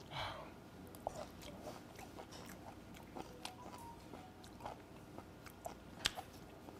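Soft, close-up chewing of a mouthful of fresh, unfermented raw skate, with scattered small clicks.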